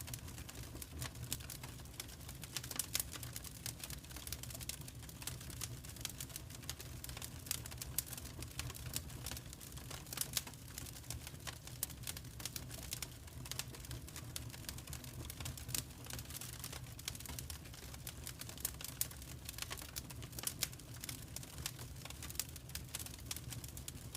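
Fire crackling in a fireplace: a dense run of small pops, with now and then a louder snap, over a low steady rumble.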